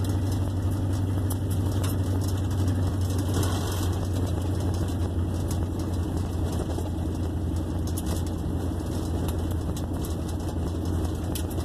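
1958 Plymouth Suburban engine running steadily with no muffler, its exhaust coming straight off the Y pipe, heard from inside the car as it drives with a loud, steady low drone.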